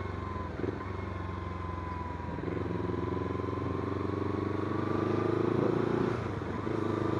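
Kawasaki Z250 parallel-twin motorcycle engine running while riding, with wind and road noise. The engine note strengthens and grows louder from a couple of seconds in, easing off briefly near the end.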